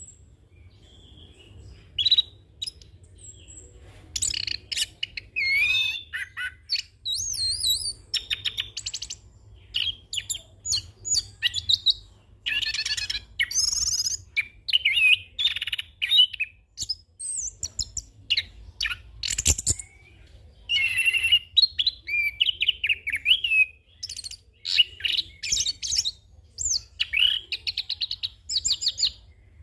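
Orange-headed thrush (anis kembang) singing a long, varied song of quick warbling phrases and fast trills, full of mimicked notes, broken by short pauses. There is a single sharp click about two-thirds of the way through.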